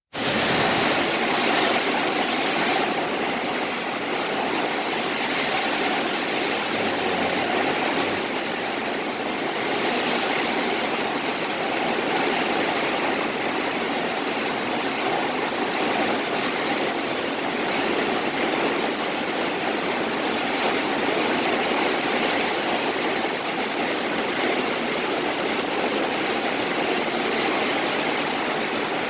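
Strong wind blowing, a steady rushing noise that holds at a constant level without marked gusts.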